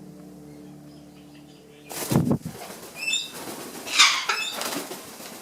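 A pet bird flapping its wings close by in two loud flurries, about two seconds in and again around four seconds in, with a few short high chirps between them.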